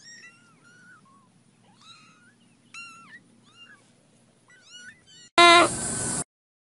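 Several very young kittens mewing over and over in short, high, thin cries. Near the end a much louder sound lasting under a second breaks in and cuts off abruptly.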